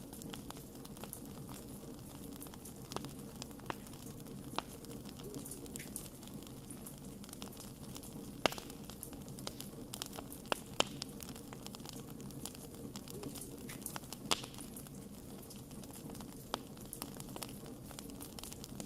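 Wood fire crackling: a steady low rush of burning with sharp pops scattered irregularly through it, a few louder snaps among them.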